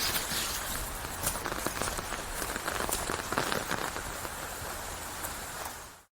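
Steady rain falling, with many individual drops heard as distinct ticks over a dense hiss. The rain fades out quickly near the end and gives way to near silence.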